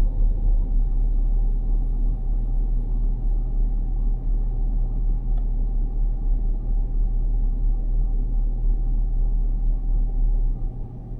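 Steady low wind rumble buffeting the microphone in strong storm inflow, easing off about ten and a half seconds in.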